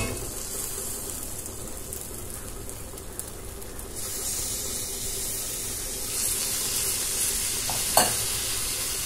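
Drained rice sizzling in hot oil and fried spice paste in a metal kadai. The sizzle grows louder about four seconds in, and there is a single sharp knock near the end.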